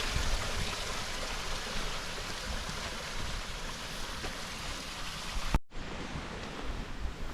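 Steady rushing of a waterfall's cascading water. About five and a half seconds in it cuts out for a moment, then carries on softer.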